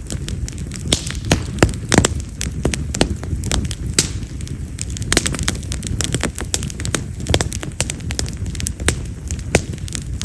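Split Japanese mountain cherry (yamazakura) firewood burning in an open bonfire, crackling with frequent sharp, firecracker-like pops, several a second, over a low steady rumble of the flames.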